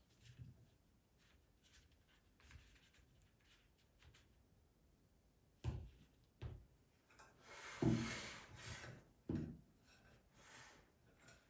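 Quiet handling sounds: a few faint ticks, then soft knocks and a short spell of rubbing and rustling about halfway through, with the loudest knock about eight seconds in.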